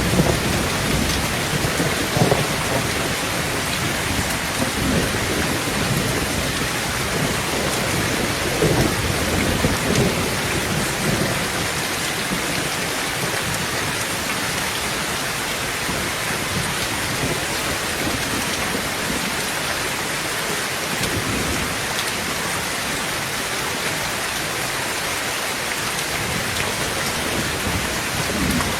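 Heavy rain falling steadily on a tin roof, with low rolling thunder through the first ten seconds or so that fades away, and rumbling again near the end.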